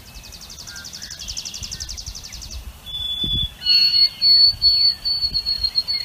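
White-throated sparrow singing its clear whistled song: one lower held whistle, then a long run of higher whistled notes on one pitch. A rapid high trill of about nine notes a second comes before it, lasting a couple of seconds.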